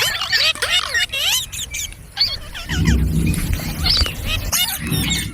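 Indian ringneck parrot chattering in a rapid string of squeaky whistles and chirps that swoop up and down in pitch, with a deeper, voice-like stretch in the middle lasting about a second and a half.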